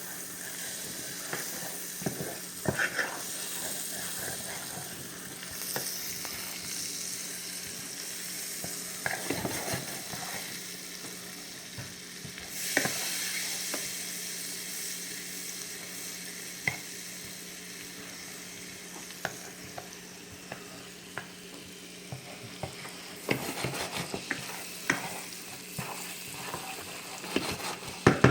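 Garlic frying in butter and olive oil, sizzling steadily in a pan on lowered heat, with scattered clicks of a utensil stirring against the pan that come more often near the end.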